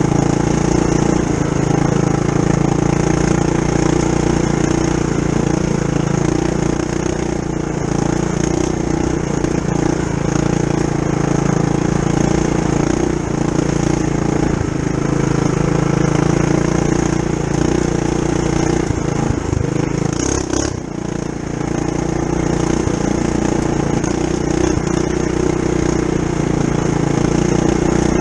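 Mini bike's Tillotson 212cc single-cylinder four-stroke engine, stage one with the governor gear removed, running under throttle on the trail; its pitch shifts a little with the throttle, and it briefly drops off about twenty seconds in before picking back up.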